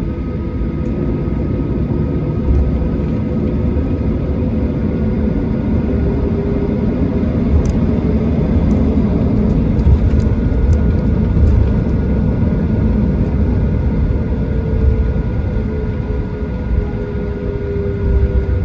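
Inside the cabin of a Boeing 737-800: the CFM56-7B engines run at taxi power as a steady low rumble, with a few faint whining tones that shift slightly in pitch and occasional faint ticks.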